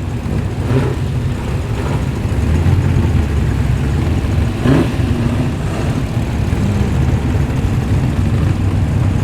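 Muscle car engine running at low speed with a deep rumble as the car rolls by, getting louder about two and a half seconds in.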